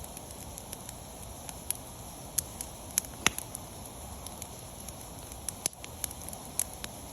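Wood campfire burning: a steady low rush of flames with scattered sharp crackles and pops, the loudest about three seconds in.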